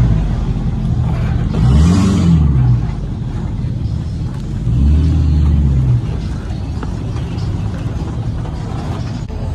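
Pickup truck engine revving twice: a rise and fall in pitch about two seconds in, then a second rev held for about a second near the middle, with a low engine rumble in between.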